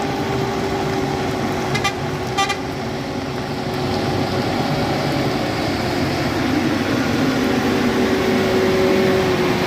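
Heavy vehicle engine running steadily, with two short horn toots about two seconds in; the engine grows louder through the second half.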